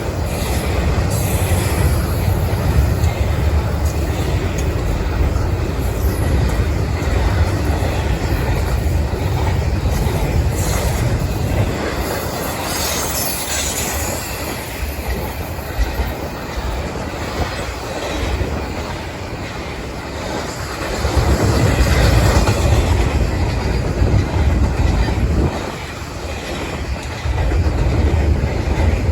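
Freight train rolling past with a heavy, steady rumble of wheels on the rails, and a high wheel squeal about halfway through.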